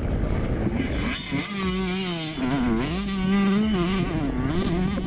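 85 cc two-stroke motocross bike engine revving hard, its pitch rising and falling again and again as the throttle is worked through the gears.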